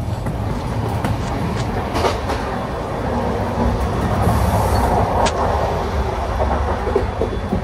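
Moving Indian Railways passenger train heard from inside: a steady rumble of wheels and running gear with rattles and clacks. It gets a little louder about halfway through, in the gangway between coaches.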